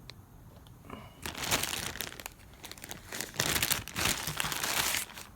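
A bag of parts crinkling as it is handled, in irregular bursts starting about a second in.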